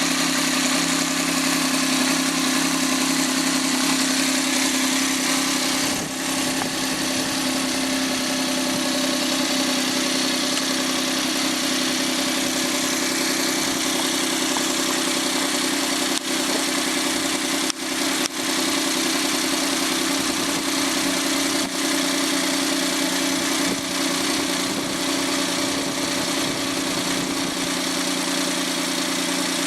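Overhauled Suzuki K6A 660 cc turbocharged three-cylinder engine idling steadily on a test run after its rebuild.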